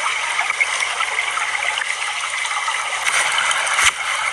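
Steady rushing of running water, with one sharp knock about four seconds in.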